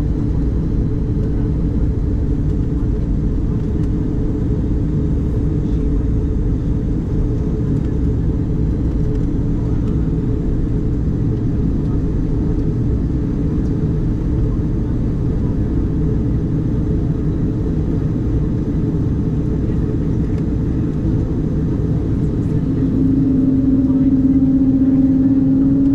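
Steady low cabin rumble inside an Embraer 190-E2 airliner. About 23 seconds in, a humming tone grows louder and rises slightly in pitch.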